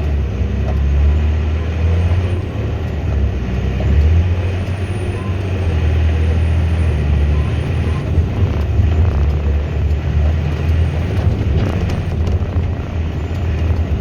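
Volvo A25D articulated dump truck driving empty, heard from inside the cab: a steady, loud low diesel drone with road and cab noise.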